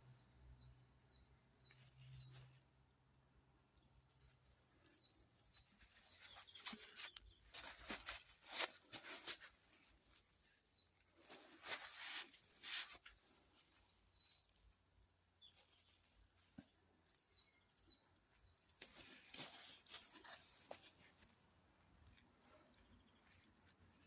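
Quiet workshop sound: a small bird chirps in short bursts of quick falling notes, repeated several times. In between come soft clicks and scrapes of engine parts and tools being handled, loudest around a third and halfway through.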